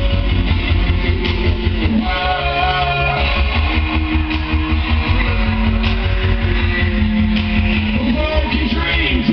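A rock band playing live, led by electric guitar over a steady bass and drum pulse, without singing.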